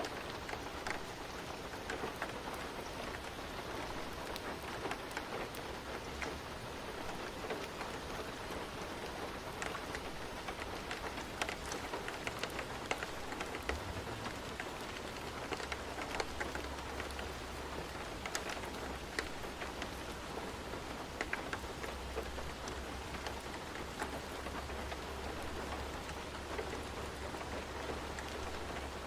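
Steady rain falling, with individual drops ticking sharply on a hard surface. A low steady rumble joins underneath from about halfway through.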